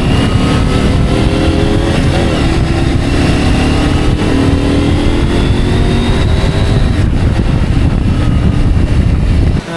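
Motorcycle engine pulling under acceleration, its note rising gradually for several seconds, with heavy wind rumble on the on-board microphone.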